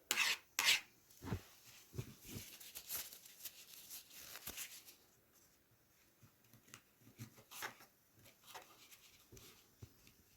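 A kitchen knife slicing cherry tomatoes, the blade clicking on a cutting board, with some rustling handling in the first half. The cuts are sparser and fainter later on.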